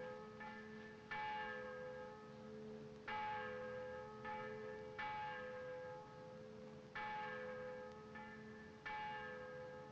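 Church bells ringing, with a new stroke every second or two that rings on and fades under the next.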